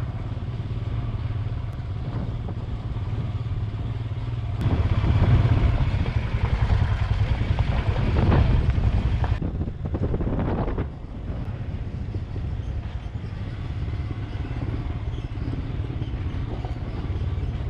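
Royal Enfield Himalayan's single-cylinder engine running under way on a dirt track, getting louder from about a third of the way in and dropping back a little past the middle.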